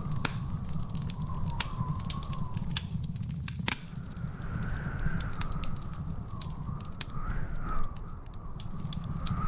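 Wood fire crackling, with many sharp irregular pops over a steady low rumble. A faint wavering whistle runs underneath.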